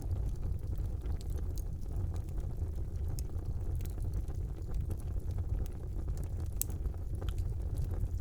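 Fire burning in a brick fireplace: the flames make a steady low rumble, with scattered crackles and pops on top and one sharper pop about two-thirds of the way through.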